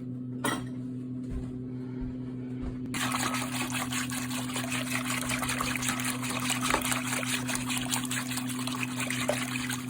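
Wire whisk beating a thin, soupy batter of seeds, oil and water in a bowl: rapid wet swishing that starts about three seconds in and keeps going. A steady low hum runs underneath.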